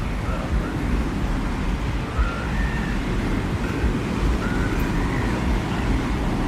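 Steady low rumble of desert wind, with faint, short wavering whistles drifting above it every second or so.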